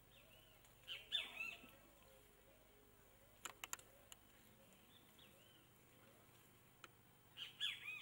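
A wild bird calling in two short bouts of quick, arching chirps, one about a second in and another near the end. A few sharp clicks come in between.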